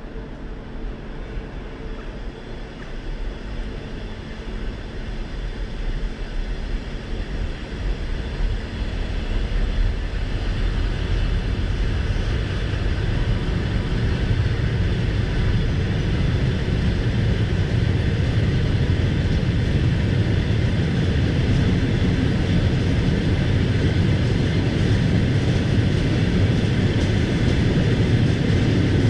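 Moving passenger train with its wheels running on the rails, a steady low rumble that grows louder over the first ten seconds or so as the train picks up speed, then holds steady.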